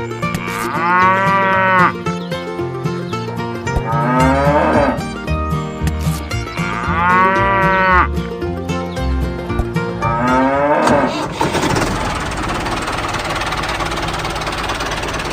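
Cow mooing four times, about three seconds apart, over background music with a stepping bass line. For the last few seconds a steady rushing noise takes over.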